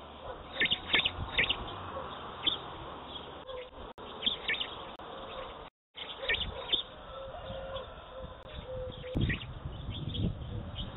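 Small birds chirping in quick, short calls over steady outdoor background noise, with a soft low thump about nine seconds in; the sound briefly cuts out twice near the middle.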